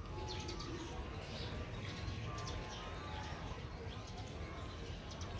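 Birds chirping and calling in the background: many short, scattered high chirps, with a few brief clear notes, over a steady low rumble.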